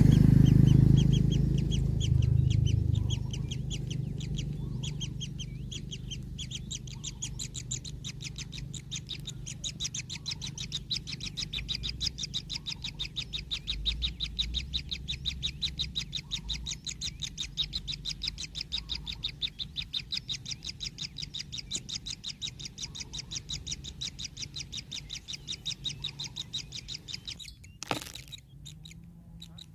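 Kingfisher chick calling: a long, even run of short high chirps, several a second, that stops near the end, followed by a sharp click.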